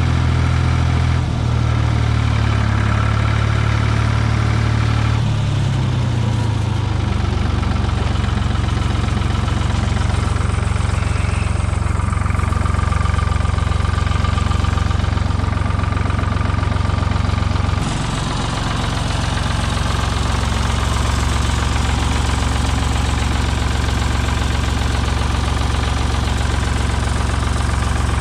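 Ford 2000 tractor's three-cylinder diesel engine running steadily. Its note shifts about six seconds in and again about eighteen seconds in, with a brief dip in loudness at the second change.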